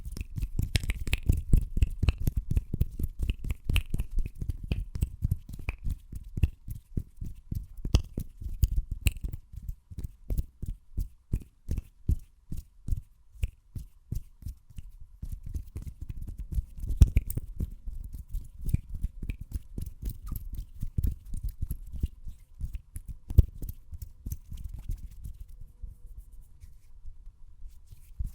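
Fast ASMR hand sounds close to the microphone: a quick run of soft low thuds and rubs, about four or five a second, with a few sharper clicks standing out, quieter near the end.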